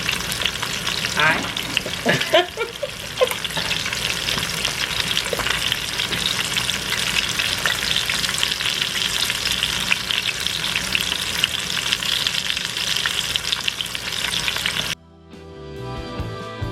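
Chicken breasts sizzling steadily as they brown in hot oil in a pan over medium-high heat. About fifteen seconds in, the sizzle cuts off suddenly and background music with a steady beat takes over.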